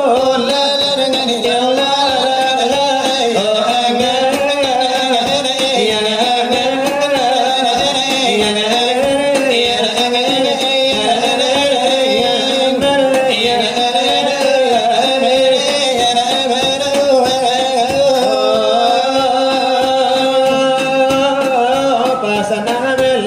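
Selawat dulang: voices singing a long, ornamented, wavering melody of Islamic devotional verse in the Minangkabau style, with no break. The singing is traditionally accompanied by finger-tapping on a brass tray (dulang).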